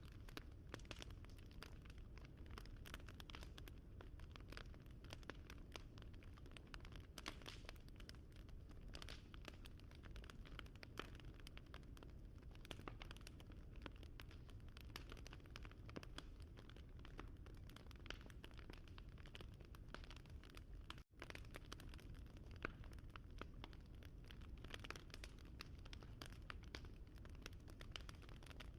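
Wood fire crackling: a steady run of small irregular snaps and pops over a low rumble, with a momentary dropout about 21 seconds in.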